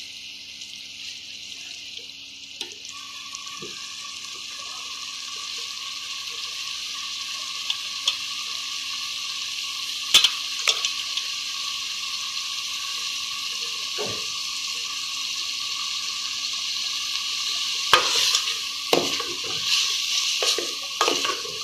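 Chicken, onions and tomatoes sizzling in oil and spices in an aluminium pot, a steady hiss that slowly grows louder, with a faint steady tone joining about three seconds in. A few sharp knocks, then near the end a wooden spoon scraping and knocking in the pot as the mixture is stirred.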